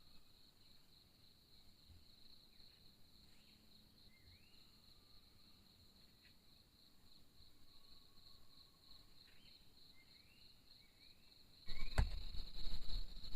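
Insects, likely crickets, give a steady high pulsing trill, with a few short rising chirps now and then. Near the end, louder rustling with a sharp knock sets in.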